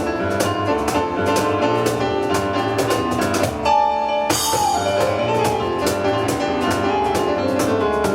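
Live instrumental piano and percussion playing a fast, driving piece. About three and a half seconds in, the playing breaks on a held piano chord, and then comes back in with a crash.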